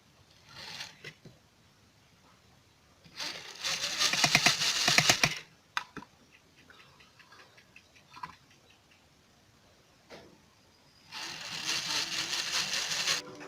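Small electric motor, as of a toy RC helicopter, buzzing in two bursts of about two seconds each, with a few faint clicks between them.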